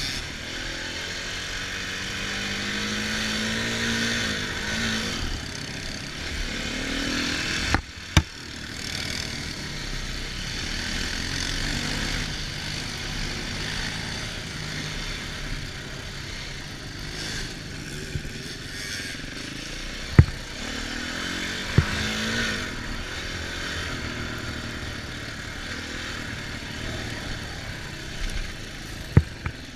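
Dirt bike engine revving up and falling back again and again while riding, with wind rushing over the microphone. Several sharp knocks are heard, two close together about eight seconds in and more later on.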